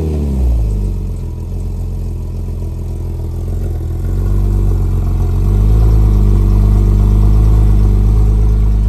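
Porsche GT4's flat-six engine, breathing through a Soul Performance exhaust, just after a cold start: the revs flare and fall in the first half-second, then it settles into a steady idle. The idle gets louder about five seconds in.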